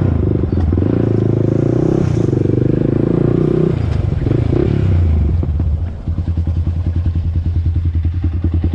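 Honda TRX400EX ATV's single-cylinder four-stroke engine running steadily while riding, then settling to an even, pulsing idle about six seconds in.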